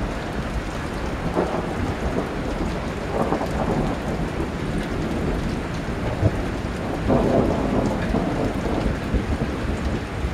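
Steady rain falling during a thunderstorm, with thunder rumbling underneath and swelling louder twice.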